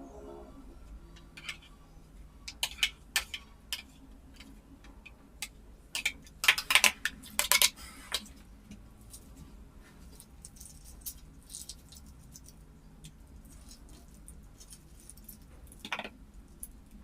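Scattered clicks and knocks of kitchen food preparation, utensils and ingredients being handled, with a burst of loud sharp clatters about six to eight seconds in and another knock near the end.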